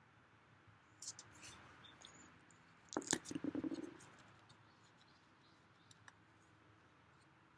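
Faint scattered clicks and light rustling, with a louder burst of quick scraping rustles about three seconds in lasting about a second.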